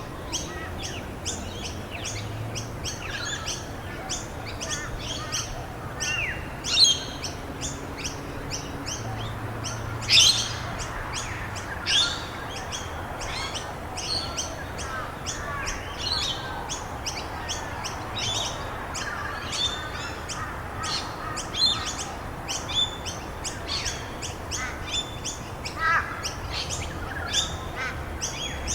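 Many songbirds chirping and singing almost without pause over a steady hiss. A few louder, sharp calls fall in pitch, about 7, 10 and 12 seconds in.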